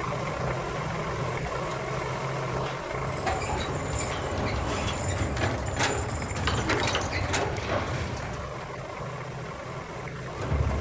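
Small electric motor of a homemade mini tractor running with a steady low hum. From about three seconds in, many irregular clicks and rattles.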